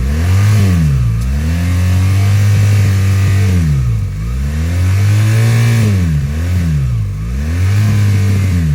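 Motorcycle engine revved hard over and over, its pitch swelling up, holding, dipping and rising again several times, while the bike fails to climb under power. The rider suspects the clutch is slipping.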